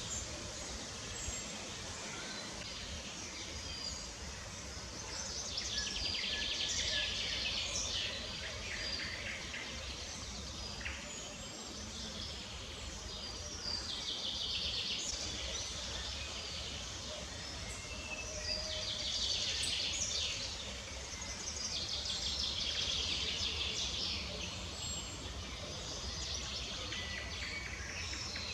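Wild birds singing: trilled song phrases a few seconds long, repeating several times, over a steady low background rumble.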